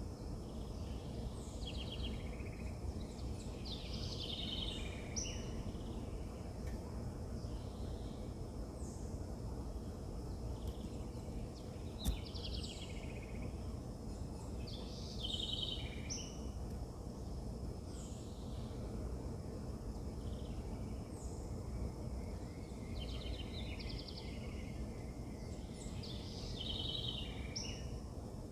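Several birds chirping and trilling in short clusters of calls, over a steady low background rumble; a single sharp click about twelve seconds in.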